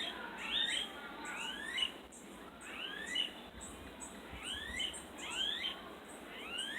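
Bird calling: a series of short sweeping chirps, often in pairs, about one to two a second.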